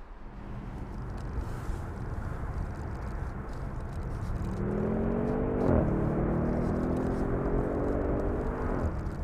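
Audi RS 7's twin-turbo V8 accelerating hard: the engine note climbs steadily, with a short break about halfway through, then falls away near the end.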